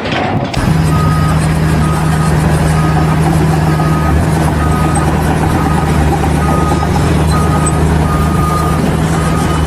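Heavy vehicle's engine running steadily, with a reversing alarm beeping at an even pace, a little more than once a second.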